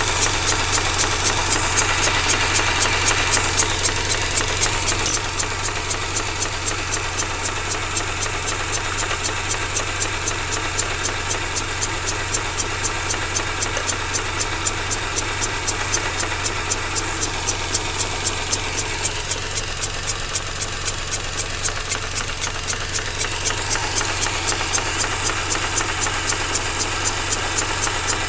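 Mazda RX-8's Renesis rotary engine idling very roughly, with a regular pulsing air-suction sound and an even ticking from the secondary shutter valve (SSV). The owner takes the pulses, at a third of the idle rate, as a possible sign of a blown rotor side seal. One sharper knock about five seconds in.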